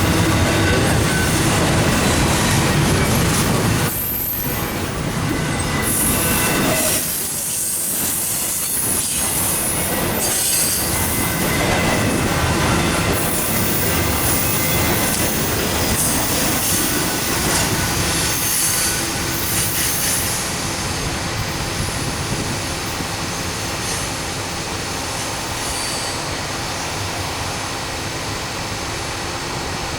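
Intermodal freight train cars rolling past, with a steady wheel squeal over the rumble and clatter of the wheels on the rails; it drops a little in loudness about four seconds in and again a few seconds later.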